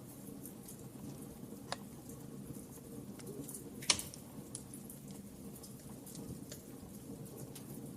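Wood fire crackling in a fireplace: a steady low rush of flame with scattered small pops, a sharp louder pop about four seconds in and a smaller one just before two seconds.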